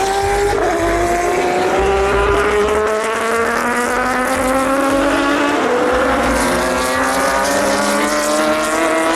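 Race car engine accelerating hard, its pitch climbing steadily, with a sharp drop at an upshift about half a second in and another at about five and a half seconds.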